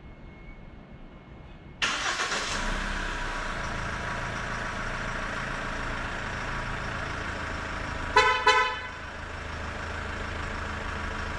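SsangYong Rexton Sports diesel engine firing up under remote start about two seconds in, then idling steadily. Around eight seconds in the horn gives two short beeps.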